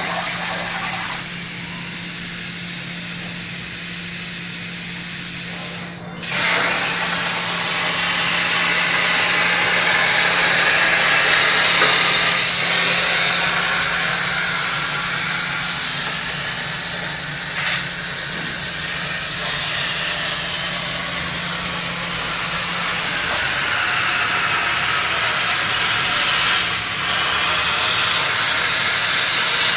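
CNC plasma cutting torch hissing steadily as it cuts metal, briefly cutting out about six seconds in, with a steady low hum underneath for most of the time.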